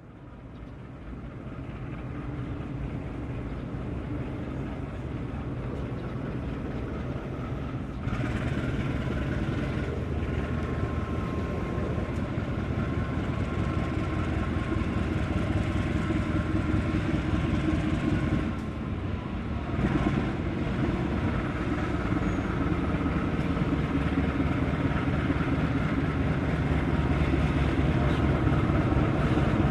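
Diesel locomotive engine running as a train approaches, growing steadily louder, with a brief dip a little past the middle.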